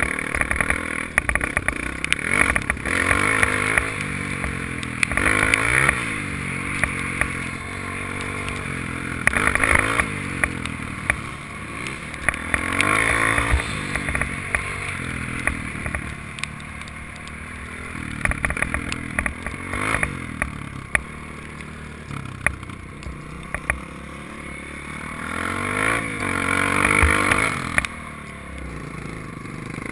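Honda dirt bike engine running under riding, its pitch rising and falling again and again as the throttle is opened and closed, with many sharp clattering knocks.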